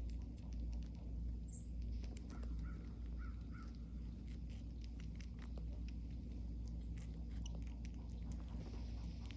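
Squirrels gnawing and chewing watermelon: a scatter of small irregular clicks and crunches over a steady low hum.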